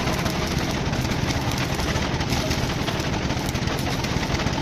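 Steady, loud machine noise with a low rumble, running without pause.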